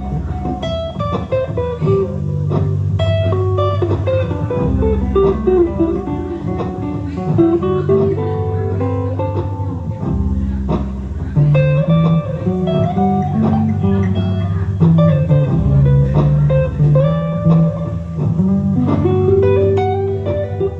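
Guitar improvisation: quick single notes and arpeggios plucked over long, held low bass notes that change every few seconds.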